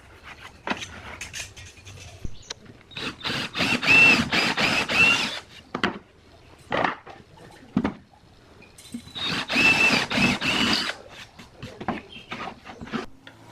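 A small power tool, such as a drill, runs in two bursts of about two seconds each, with clicks and knocks of handling between them.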